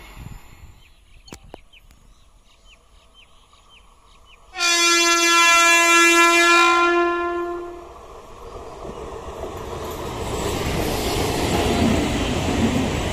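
Indian EMU local train sounding one long, steady horn blast of about three seconds. Then its rumble and wheel noise build up as it approaches and runs past close by.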